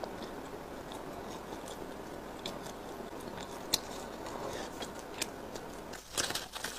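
Close-miked chewing of food, soft and steady with small wet clicks of the mouth. Louder crackling and clicking start near the end.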